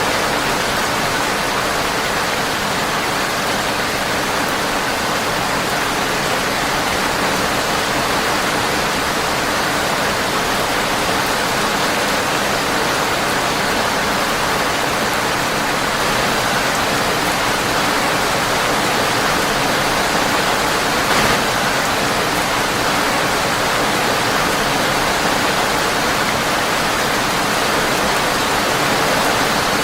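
Steady rain pattering on a windowpane, an even hiss throughout, with one brief louder click about two-thirds of the way through.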